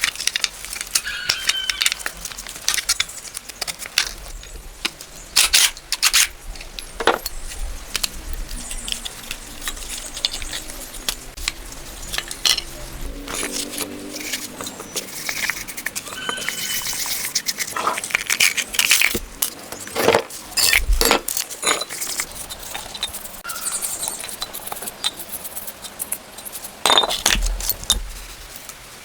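Metal tools and parts clinking and knocking, a series of separate sharp strikes with short gaps between them.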